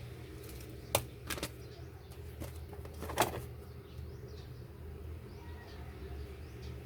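Sharp knocks and taps from handling a boxed power supply and its packaging: one about a second in, a second shortly after, and a louder one just past three seconds. A steady low hum runs underneath.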